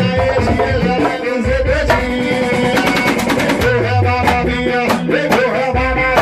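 A live band playing an instrumental passage with drums and percussion, in the Bahian pagode style.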